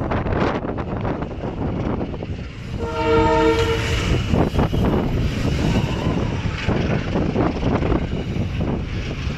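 Train horn sounding one blast of about a second, about three seconds in, over strong wind buffeting the microphone.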